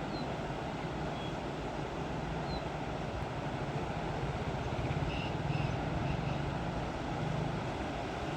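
Chenab river in spate, its swollen, fast-flowing water giving a steady rushing sound heavy in the low end.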